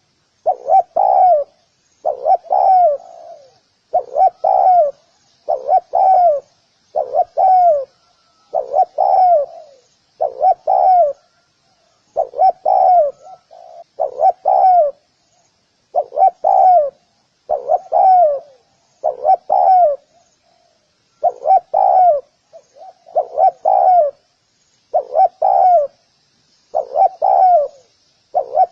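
Spotted dove cooing over and over, each call a short phrase of low coos ending in a downward slur, repeated about every second and a half to two seconds. Faint high chirping of small birds sits underneath.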